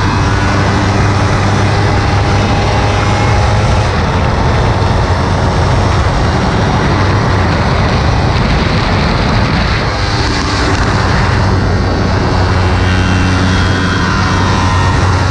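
Kawasaki Ninja 300's parallel-twin engine running hard at track speed, its engine note shifting in pitch with a brief dip in level about ten seconds in before it picks up again.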